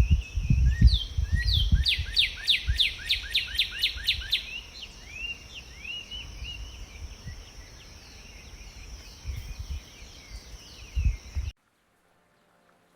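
Songbirds singing, with a fast run of about a dozen sharply falling notes about two seconds in and scattered chirps around it, over a steady high drone. Low thumps come and go underneath. All of it cuts off suddenly near the end.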